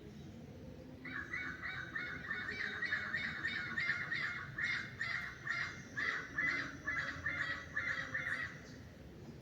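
A bird calling in a fast run of repeated notes, about three a second, starting about a second in and stopping near the end.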